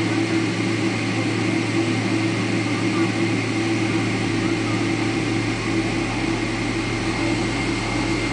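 Steady mechanical hum inside a Boeing 777-300ER's cabin during pushback and engine start, with a deeper low drone coming in about halfway through.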